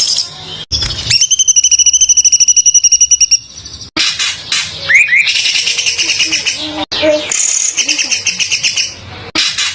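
Songbird song of the masteran tutoring kind: loud, very rapid, dense trilled bursts with quick rising sweeps. The song is heard in spliced segments that cut off abruptly about every three seconds.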